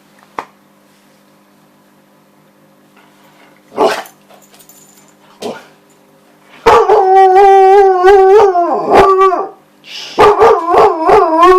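Siberian husky giving a few short barks, then a long wavering howl about seven seconds in and another bout of howling near the end: vocalising to demand her ball.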